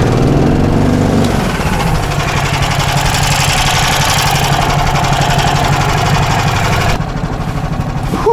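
Small single-cylinder engine of a motorised snow tug running hard, its revs rising in the first second, as it pushes through deep loose snow. Near the end the throttle is eased and it drops back to a lower, slower running.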